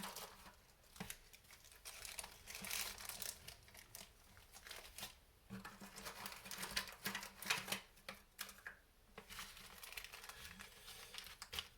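Plastic kit parts bags crinkling and rustling in irregular bursts, with small clicks, as the M3x6 button-head screws are searched for and pulled out by hand.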